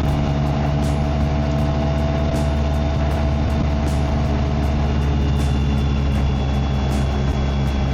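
BMW K1600GT's inline six-cylinder engine and exhaust running at a steady speed while riding, with road and wind noise.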